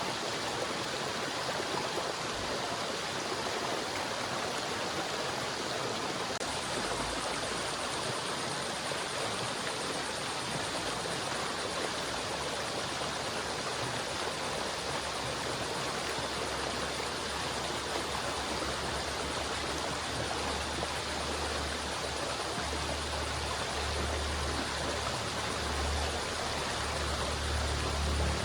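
River water flowing steadily, an even rushing hiss of running water. A low rumble builds beneath it in the second half.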